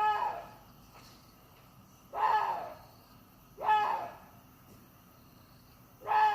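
Water deer calling: four short, harsh barks, each about half a second long and coming one and a half to two and a half seconds apart.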